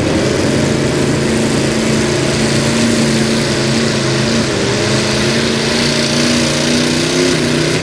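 Engine of a two-wheel-drive super stock pulling truck, running steadily, its pitch holding nearly level.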